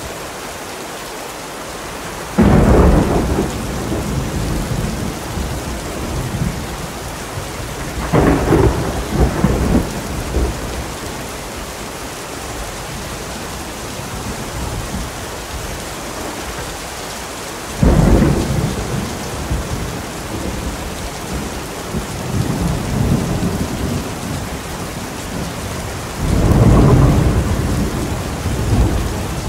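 Steady heavy rain with rolling thunder, mixed as 8D audio. Four deep peals break in, about 2 s in, at 8 s, at 18 s and near the end, each rumbling for a few seconds over the constant rain hiss.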